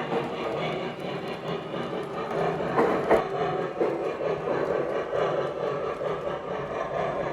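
Lionel O-gauge L2a Mohawk model steam locomotive running on three-rail track: a steady rolling rumble of wheels and motor, with two sharp clicks about three seconds in.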